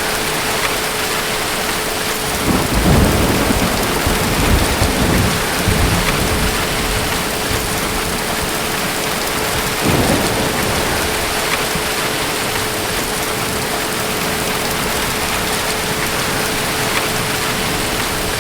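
Steady heavy rain with thunder rumbling: a long low roll from about two and a half to six seconds in and a shorter one around ten seconds, under a faint steady tone.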